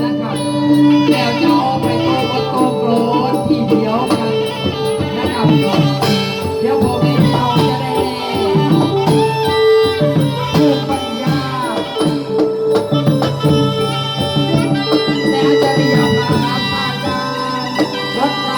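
Traditional southern Thai Manora (Nora) music, with a sustained melody over steady percussion.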